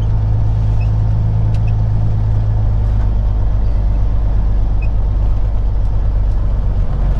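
Peterbilt 379 semi truck's diesel engine running at low speed, heard from inside the cab as a steady low drone. Near the end its note shifts to a different pitch.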